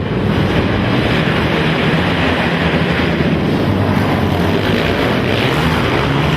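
Racing ATV engines running loudly and steadily, with no single clear rev up or down.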